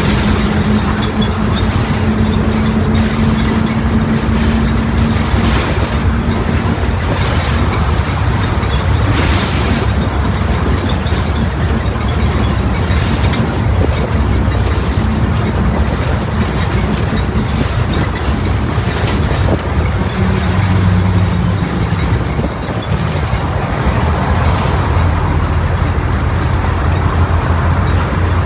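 Mercedes-Benz OF1722M bus running on the road, its diesel engine giving a steady low drone. A whine from the differential sits above it for the first several seconds and returns briefly about two-thirds of the way through.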